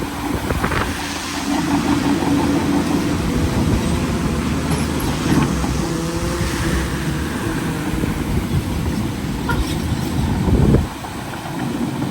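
Bulldozer diesel engine working under load, its pitch shifting as the engine speed changes. It swells briefly, then drops off sharply about eleven seconds in.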